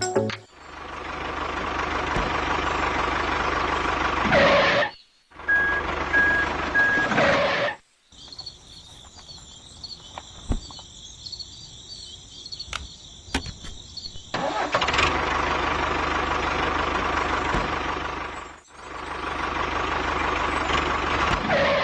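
Motor vehicle engine running, heard in several blocks that start and stop abruptly, with a quieter stretch of high hiss in the middle.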